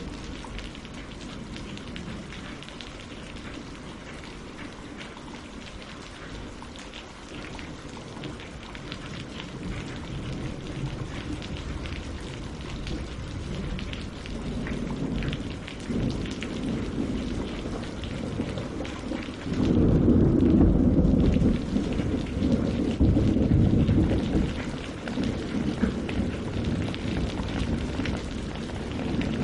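Steady rain falling, with a low thunder rumble building in the second half and peaking suddenly about two-thirds of the way through before rolling on.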